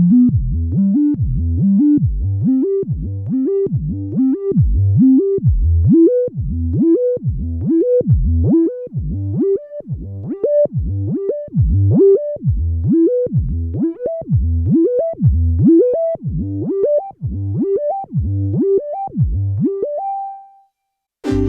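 Sequential Circuits Prophet VS vector synthesizer playing a fast repeating pattern of short notes, about two a second, each note sweeping upward in pitch, with the pattern climbing gradually higher. It ends on a short held high tone, breaks off briefly, and a full sustained synth chord starts right at the end.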